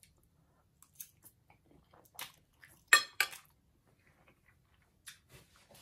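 A person chewing a mouthful of fettuccine in tomato sauce: scattered soft, wet mouth clicks, with two sharper clicks about three seconds in.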